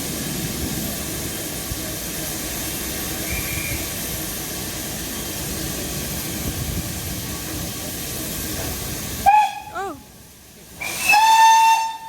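Steam locomotive hissing steadily for several seconds, then its whistle gives a short blast that sags in pitch as it dies away, followed a second later by a longer, steady whistle.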